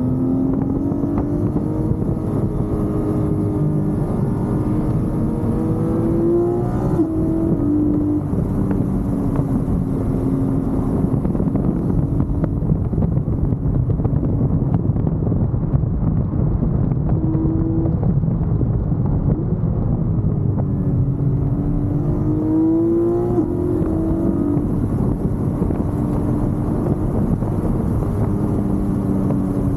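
Porsche 718 GT4's 4.0-litre flat-six engine running hard on track. Its note climbs and then drops about seven seconds in and again around twenty-three seconds in, over steady road and wind noise.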